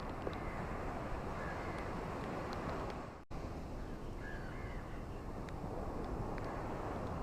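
Steady hiss of rain and surf on a beach, with scattered light drop ticks and two faint bird calls, one about a second and a half in and one about four seconds in. The sound cuts out for a split second just after three seconds.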